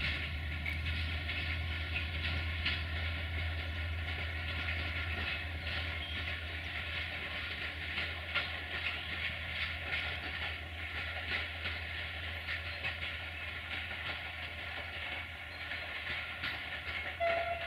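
Passenger train rolling along the track, its wheels clicking over the rail joints above a steady low drone. A brief higher tone sounds near the end.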